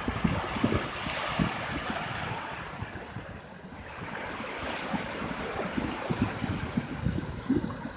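Surf washing on the shore with wind gusting on the microphone, a steady hiss with low rumbling buffets that ease slightly midway.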